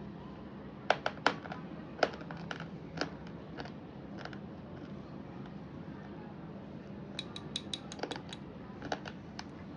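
Brittle slate pencil crunched close to the microphone: irregular sharp crunches and cracks, the loudest about one and two seconds in, then a quick run of crisp clicks about seven to eight seconds in.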